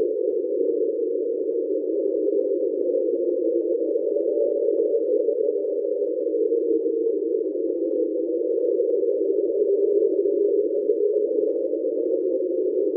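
Deep-sea hydrophone recording of the unidentified ocean sound known as "Train", at its original speed: a steady, rough hum made of several close tones, holding level without a break. NOAA attributes this sound to a large iceberg running aground.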